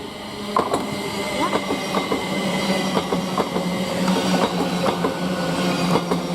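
Thameslink Class 700 electric multiple unit approaching along the track, growing louder about half a second in, with a steady hum and repeated clicks of its wheels over the rails.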